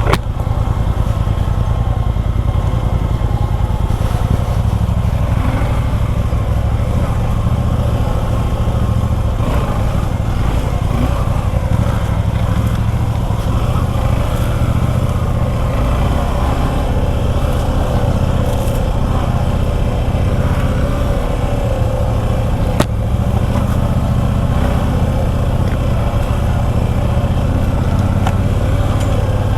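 Motorcycle engine, the single-cylinder of a Suzuki V-Strom 250 SX, running steadily under way on the trail. There is one sharp click late on.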